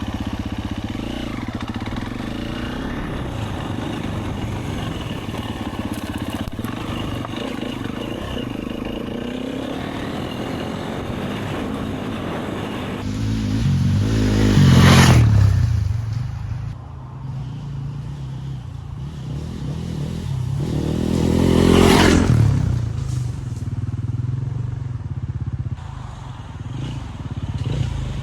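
Husqvarna FE250 single-cylinder four-stroke dirt bike engine being ridden, running steadily at first, then revving up hard twice, about halfway in and again about three-quarters in, with lighter throttle in between.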